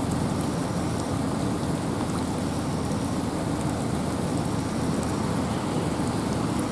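Steady wind and rain in a forest: a dense, even rushing weighted toward the low end, with faint scattered drip ticks.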